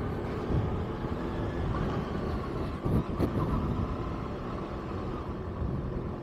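Kawasaki ZX-6R inline-four engine running on the move, with heavy wind rumble on the bike-mounted camera's microphone. There is a brief knock about three seconds in.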